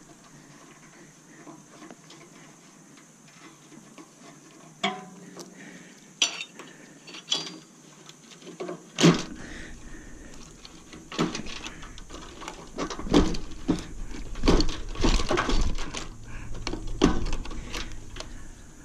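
Metal objects being handled, clinking and clanking in a scattered series of knocks that gets busier in the second half, with one sharp clank about nine seconds in.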